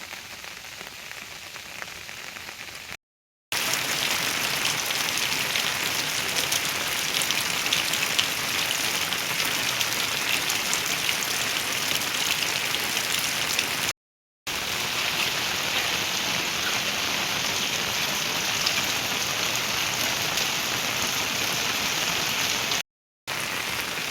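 Heavy rain falling, a steady dense patter of drops. It is quieter for the first few seconds, and the sound drops out abruptly three times in short silent cuts between clips.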